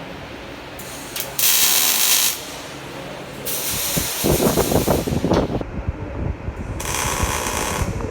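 Welding-shop work noise: three bursts of loud hissing, the middle one with a heavy, irregular crackle.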